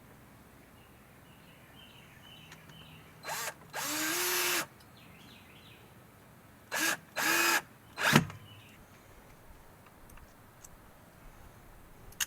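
Electric drill run in two pairs of short trigger pulls, each a brief blip followed by a run of under a second in which the motor spins up to a steady whine. A sharp knock follows about eight seconds in, the loudest sound.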